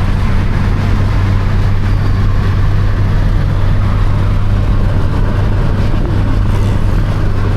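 A vehicle's engine humming steadily under a loud, even rushing noise, as of travel at speed.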